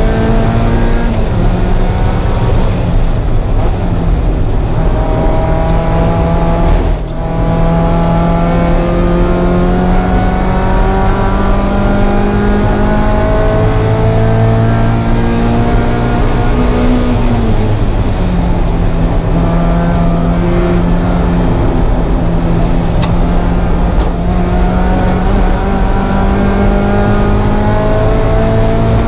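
1994 Mazda Miata's 1.8-litre four-cylinder engine running hard on track. Its pitch climbs slowly through long pulls, drops in engine speed near the start and about eighteen seconds in, and there is a brief dip in loudness about seven seconds in.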